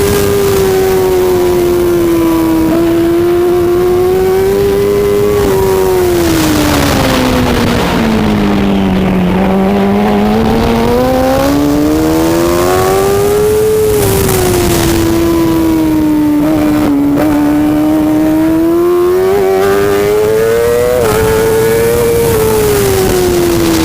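A racing superbike engine running hard without a break, its pitch falling and rising with engine speed: slowing to its lowest about a third of the way in, climbing again, then easing off and picking up twice more, with a few quick jumps in pitch.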